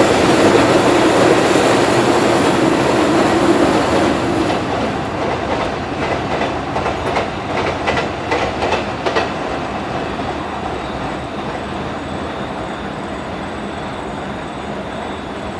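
Freight train of Pertamina fuel tank wagons rolling past on steel rails: a loud, dense rumble at first that fades steadily as the train moves away, with a quick run of wheel clacks over rail joints from about five to nine seconds in.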